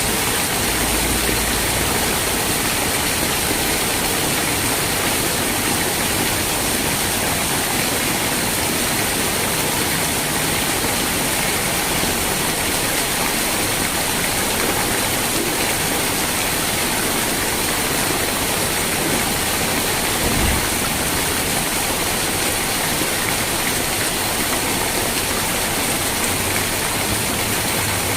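Rain falling steadily, an even hiss with no breaks, and a brief low thump about twenty seconds in.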